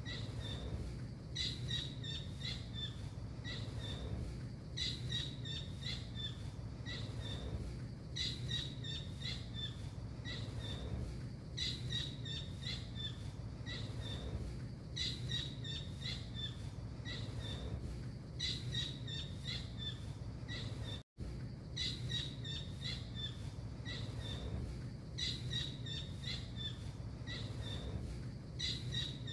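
Blue kingfisher (tengkek biru) calling: bursts of rapid, high-pitched notes repeated every three to four seconds over a steady low hum. The sound cuts out for an instant about 21 seconds in.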